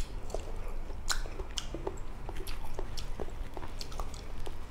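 A person chewing soft pieces of mango close to the microphone, with an irregular run of short mouth and lip smacks, several a second.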